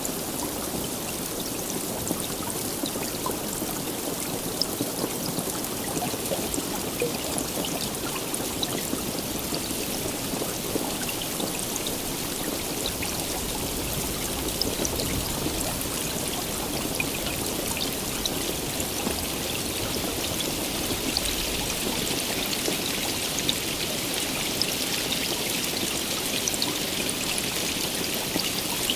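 Steady heavy rain, an even rushing hiss dotted with many sharp drop ticks, with no thunder. The higher hiss grows a little stronger near the end.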